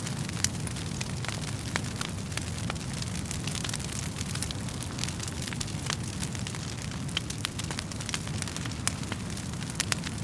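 Wood fire crackling steadily: frequent sharp pops and snaps of burning logs over a low, even rumble of the flames.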